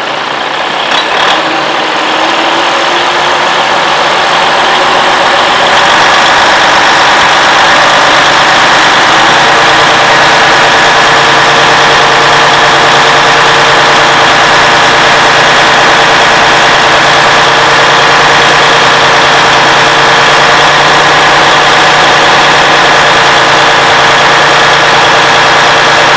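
Detroit DD15 diesel engine in a semi truck brought up from idle to a steady raised speed of about 1200 RPM, climbing over the first few seconds and then holding even. The raised idle is meant to open up the valves and cylinders after the oil service and fuel priming.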